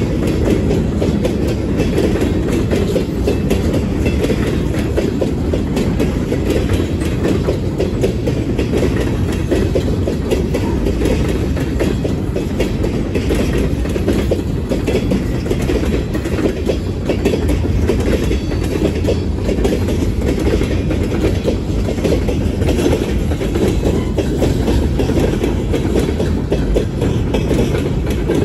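Freight cars rolling past steadily: a continuous low rumble of steel wheels on rail, with faint clicks over the rail joints.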